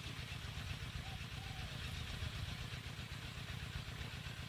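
A small engine running steadily at idle-like speed, a constant low pulsing drone.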